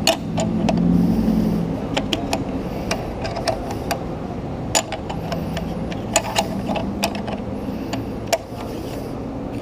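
A gas pump and nozzle being handled during refuelling: a steady low hum with about a dozen irregular sharp clicks and knocks.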